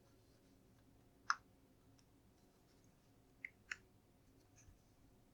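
A few sharp clicks of LEGO plastic parts being handled and pressed together: one about a second in, then two quick ones a little later.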